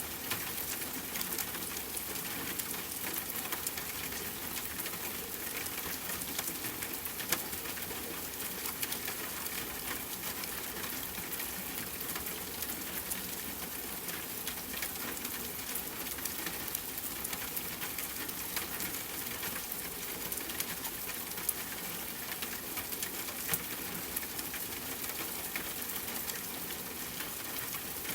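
Steady rain falling on a tent, with scattered sharp crackles and occasional louder pops from a campfire.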